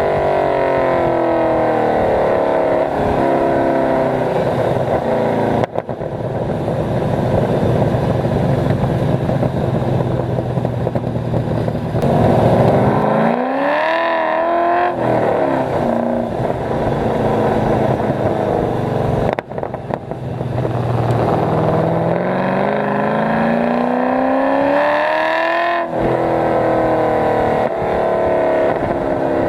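Cammed 5.7-litre LS1 V8 of an HSV VY Clubsport R8, breathing through long-tube headers and an X-pipe exhaust, driven hard: the engine note falls off, then climbs under throttle, with brief breaks for gear changes about six and nineteen seconds in, and falls again near the end.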